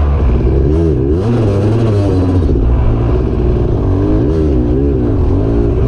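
Dirt bike engine being ridden over rocks, the throttle opened and closed repeatedly so the revs rise and fall several times.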